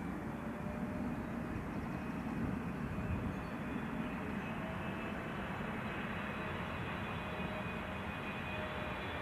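Distant jet airliner engines: a steady low rumble with a faint, even whine.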